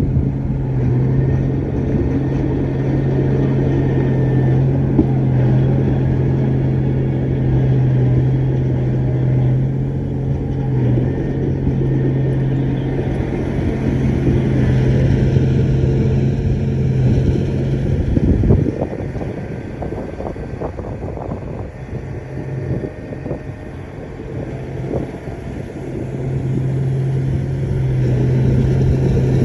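Shantui bulldozer's diesel engine running with a steady drone. About 18 seconds in it drops away with a few clanks, runs quieter for several seconds, then picks up again near the end.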